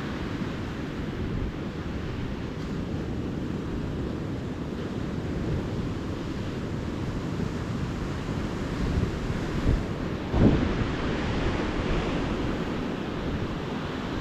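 Calm ocean surf washing steadily onto the beach, with wind on the microphone; a brief low thump about ten seconds in.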